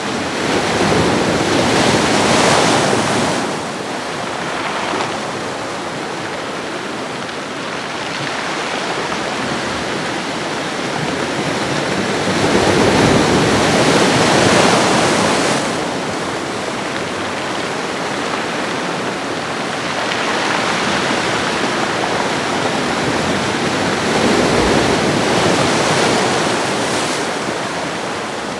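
Ocean waves washing onto a shoreline: a steady rush of surf that swells and eases three times, roughly eleven seconds apart.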